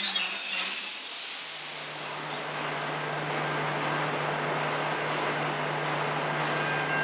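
A train rolling past: high-pitched wheel squeal for about the first second, then a steady rolling noise with a low, even hum underneath.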